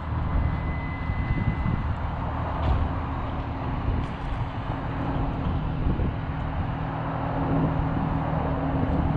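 Infiniti G coupe's V6 idling steadily through a Tomei titanium exhaust with Motordyne art pipes.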